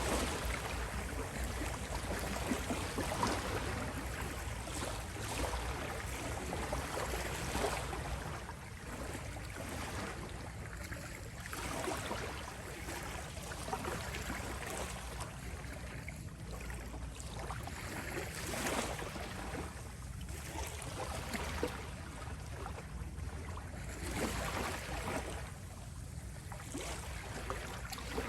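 Gentle ocean waves washing onto a shore, the surf swelling and easing again every few seconds.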